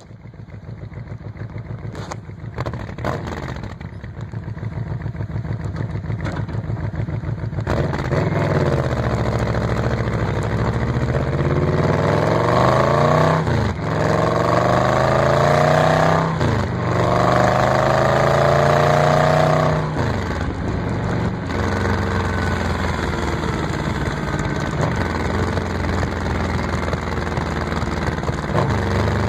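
1997 Yamaha Royal Star V4 engine through its stock exhaust with the baffles removed. It runs at a low, pulsing tick-over that grows louder, then accelerates through several gears, its pitch rising and dropping at each shift, and settles into a steady, lower-pitched run.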